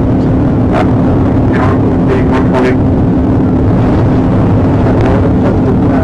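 Police patrol car running hard during a pursuit: loud, steady engine and road noise with a constant drone.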